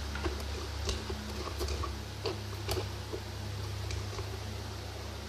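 Homemade glue slime being stirred with a spoon in a cup: scattered small wet clicks and air bubbles popping in the sticky mixture, over a steady low hum.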